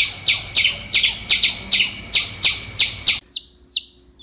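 Squirrel giving a rapid, repeated high chirping call, about three sharp falling chirps a second, typical of a squirrel's alarm call. The calls cut off abruptly about three seconds in, and quieter high falling peeps of a baby chick follow.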